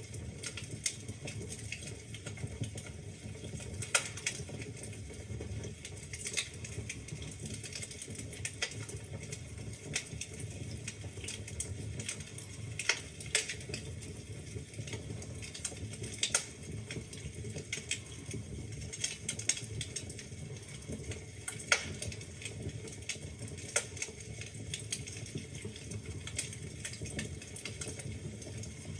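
Wood fire burning in a fireplace: a steady low rumble of flames with irregular crackles and pops from the burning logs, a few of them sharp and loud.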